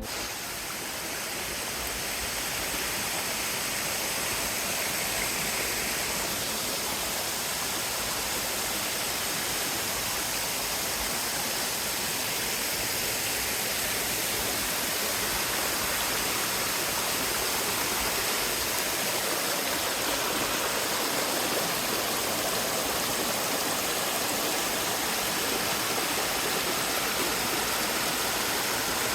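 Waterfall pouring: a steady, even rush of falling and splashing water.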